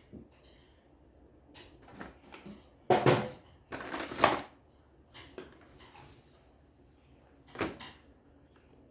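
Knocks and clatter of hard objects being handled: a sharp knock about three seconds in, a longer rattling clatter just after, and one more knock near the end.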